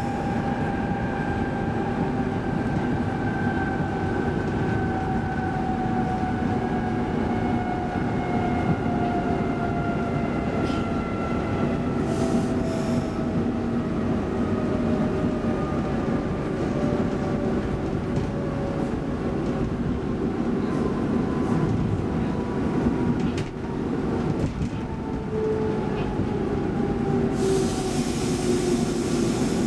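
Cabin noise inside a Stockholm X10 electric commuter train under way: steady rumble of wheels and running gear, with the electric traction motors' whine falling slowly in pitch as the train slows down. A few light clicks come over the rail joints near the middle.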